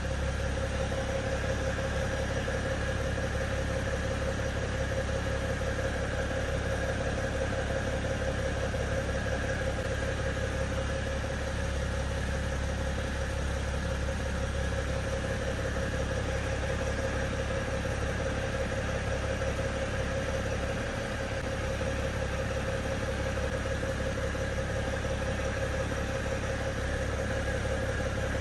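BMW 525 diesel engine idling steadily, with no revving.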